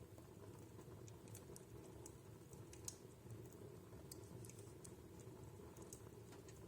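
Wood fire crackling in a fireplace: faint, scattered sharp pops and snaps, the loudest about three seconds in, over a low steady background.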